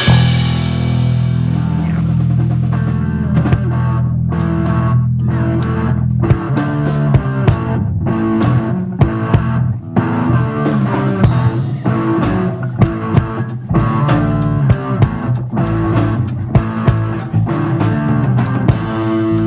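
A live rock band plays an instrumental passage on guitar, bass guitar and drum kit. A low chord is held for about the first six seconds, then the band goes into a rhythmic passage with steady drum hits.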